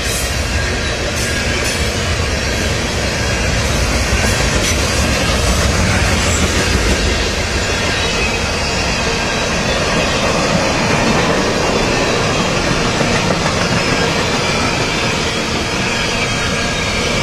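Freight train rolling past with a steady, loud noise of wheels on rail; the low rumble is heaviest for the first half and eases after that.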